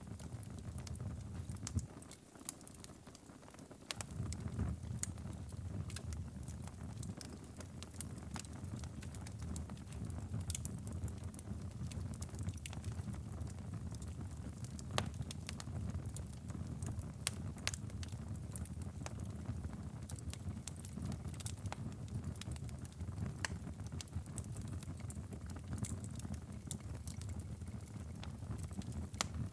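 Wood fire in a stone fireplace crackling and popping, with sharp irregular snaps over a steady low rumble that dips briefly about two seconds in.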